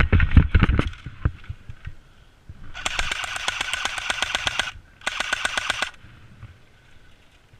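Airsoft gun firing on full auto in two rapid bursts, the first nearly two seconds long and the second shorter. Loud thumping and rustling of movement close to the microphone come first.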